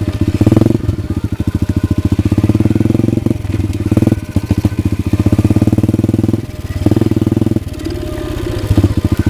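Pit bike's single-cylinder engine running unevenly under a gently worked throttle, picking up and sagging several times without revving out cleanly. The owner takes the faltering for a dirty carburetor; the tank was in fact running out of fuel.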